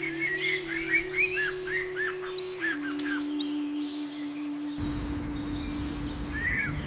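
Songbird chirping in a quick run of short rising-and-falling notes, about four a second, with a few higher sweeping calls near the middle, over soft sustained synth-pad background music.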